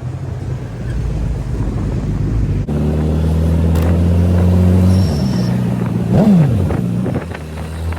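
Suzuki Hayabusa's inline-four engine running under way, a steady low exhaust drone. The sound changes abruptly about three seconds in, the revs drop about five seconds in, and a quick rev blip rises and falls about six seconds in.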